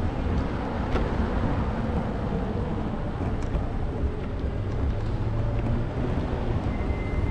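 Steady low rumble of wind on the microphone and road noise during a bicycle ride, with a few faint clicks and a thin high tone near the end.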